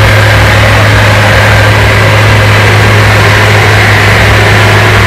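Truck engine running steadily while driving, a steady low hum under a broad rush of road noise, heard from aboard the truck.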